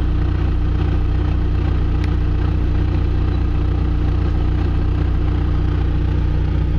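John Deere 650J crawler dozer's diesel engine idling steadily.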